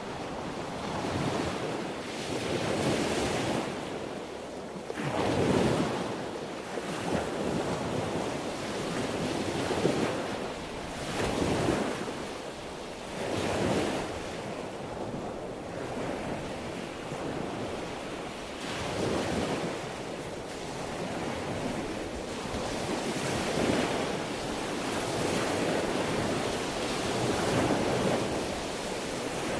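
Sea waves breaking and washing in, a rushing noise that swells and falls back every few seconds.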